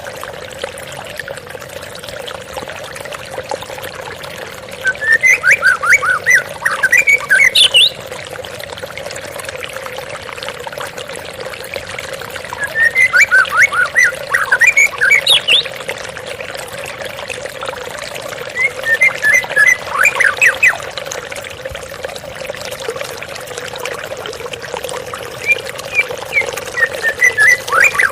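Waterfall water splashing steadily, with a white-rumped shama (murai batu) singing four loud bursts of rapid, varied notes, each two to three seconds long, several seconds apart.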